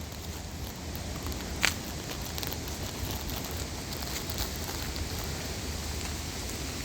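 Steady rustling and crackling of dry fall leaves, with one sharp click about one and a half seconds in.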